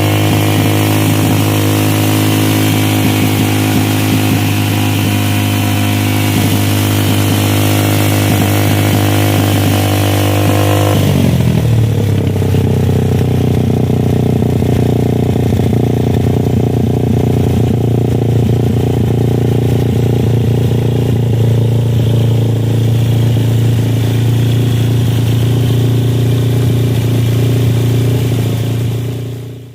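Suzuki Satria FU's 150 cc single-cylinder four-stroke engine running through a DBS aftermarket exhaust, held at steady high revs. About eleven seconds in the revs drop to a lower steady speed, and the sound fades out at the end.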